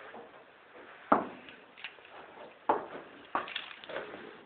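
A few sharp knocks, the loudest about a second and a half apart, with fainter clicks between them.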